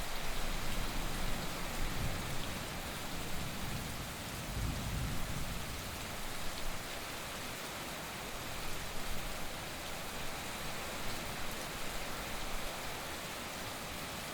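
Heavy rain falling steadily in an even hiss. A low rumble swells briefly about two seconds in and again around five seconds in, like distant thunder.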